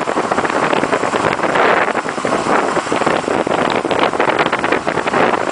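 Iceboat underway on the ice: wind buffeting the microphone over a continuous, crackling scrape of the runners.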